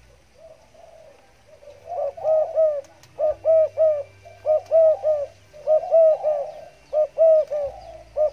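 Spotted dove (tekukur) cooing in the stuttering 'gagap' style. A few soft coos come first, then from about two seconds in, loud repeated phrases of three or four quick coos, about one phrase a second.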